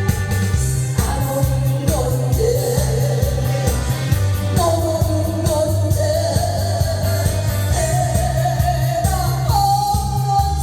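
A Korean trot song: a singer holding long notes that slide between pitches, over a backing track with a steady bass beat.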